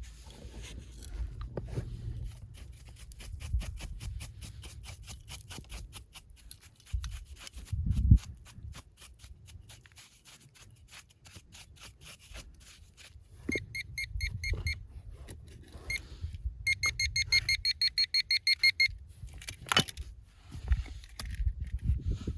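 Metal detector giving rapid pulsing beeps in two short bursts, the sign of metal under the coil, after a long run of quick light ticks.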